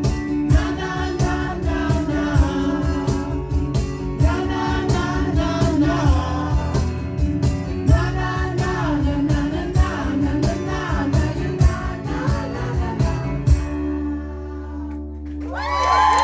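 Acoustic rock band playing live, with strummed acoustic guitars and singing. The song ends on a held chord about three-quarters of the way through, and the crowd starts cheering and whooping near the end.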